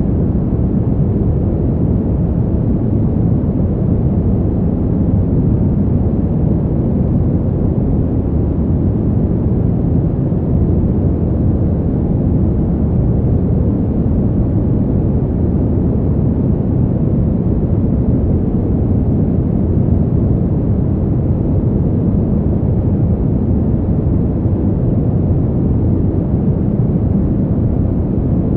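Steady low wind: an even, deep rush of noise with no separate gusts or other sounds.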